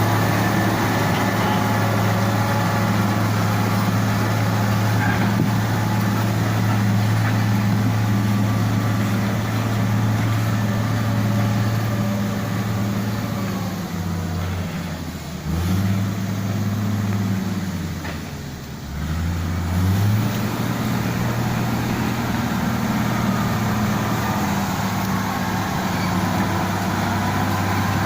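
Heavy road-repair machinery's engine running steadily. About halfway through, the engine note falls and then climbs back, as if under changing load, and then settles again.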